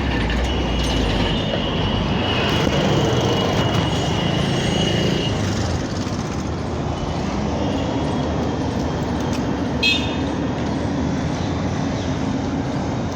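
Steady vehicle noise with a high steady whine over the first five seconds and a short horn toot about ten seconds in.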